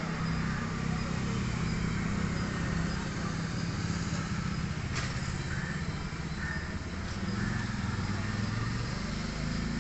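Steady low engine rumble, with a single sharp click about five seconds in and a few short faint chirps in the second half.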